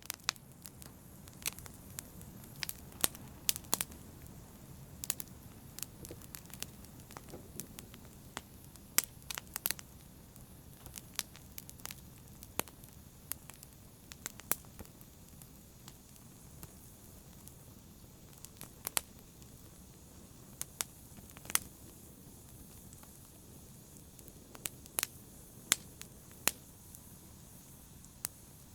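Wood fire crackling in a fireplace: a low steady hiss under irregular sharp pops and snaps from the burning logs.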